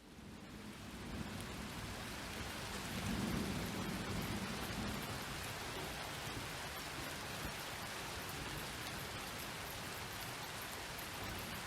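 Steady rain falling, fading in from silence at the start, with a low rumble of thunder swelling about three seconds in.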